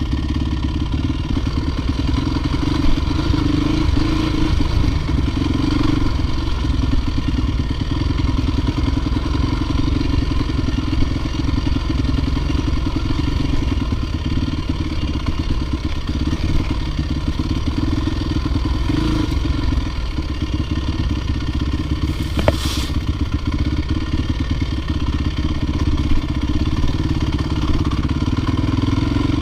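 Dirt bike engine running steadily under load, with clattering and rattling over it and one sharp click about 22 seconds in.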